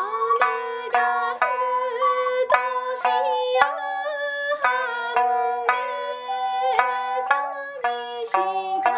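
Sanshin, the Okinawan three-stringed lute, played in a quick run of plucked notes, with an ocarina holding a sustained melody line above it.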